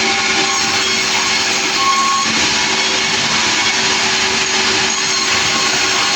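Engine-driven sawmill running steadily: a loud, unbroken machine noise with a constant engine hum and hiss.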